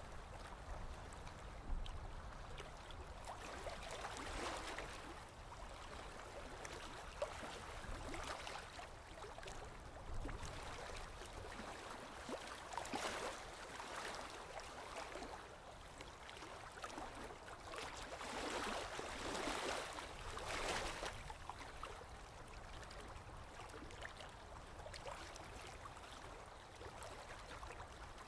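Sea waves washing in, the water swelling and falling back every few seconds over a steady low rumble.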